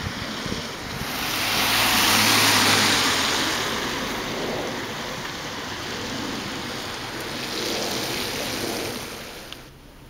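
Gusty storm wind buffeting the microphone: a rushing noise that swells about two seconds in, eases, swells again, then drops away suddenly near the end.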